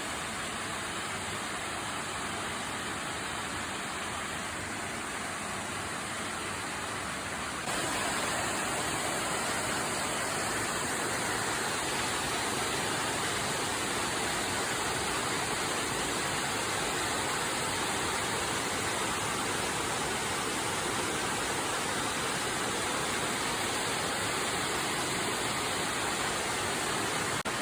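Waterfall rushing steadily, a continuous wash of falling water that gets somewhat louder about eight seconds in.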